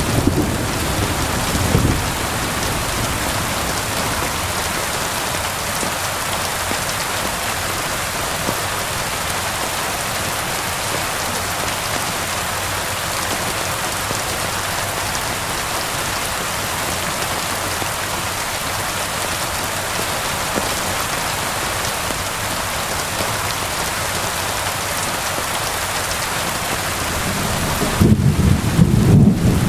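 Steady, even rain. A low rumble of thunder dies away in the first two seconds, and another rolls in near the end.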